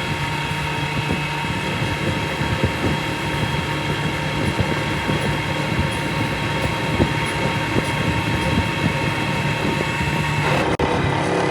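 Machinery running steadily, with a continuous rattling clatter and several steady whining tones. It breaks off abruptly near the end and goes on with a changed tone.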